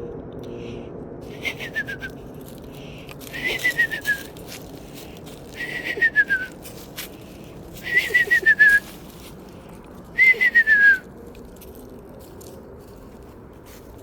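A person whistling an imitation of a screech owl's call: five short, quavering whistles, each sliding down in pitch, about two seconds apart.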